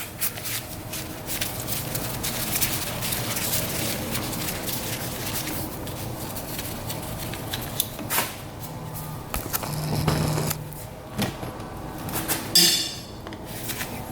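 Hand tools and metal parts clicking and clinking as bolts are worked out of a three-wheeler's pull-start cover, with a brief low hum about ten seconds in and a louder clatter near the end.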